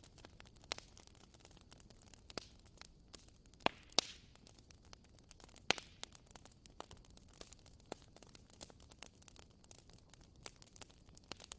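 Bonfire crackling: burning wood gives off irregular sharp pops and snaps over a faint steady hiss. A few louder pops come about a third of the way in and again around halfway.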